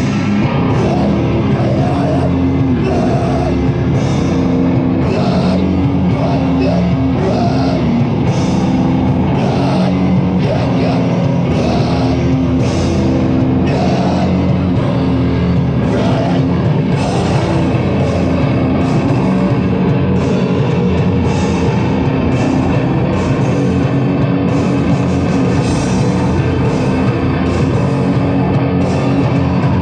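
Heavy metal band playing live: loud, dense, distorted music driven by drums, with cymbal hits repeating steadily.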